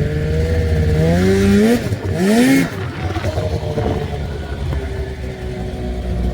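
Vehicle engine running steadily, revving up twice about a second or two in with a brief rush of noise, then settling back to a steady run.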